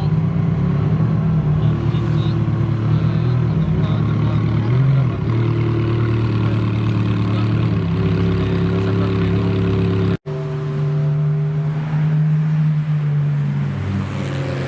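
Supercar engines running at low revs: a steady, deep engine note with small rises and falls in pitch. About ten seconds in it cuts off abruptly and a different car's engine note carries on steadily.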